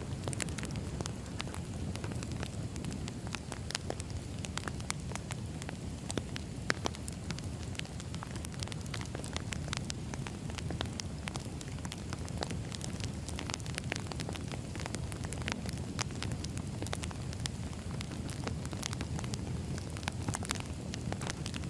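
Wood fire burning: a steady low rumble of flames with frequent sharp, irregular crackles and pops of burning firewood.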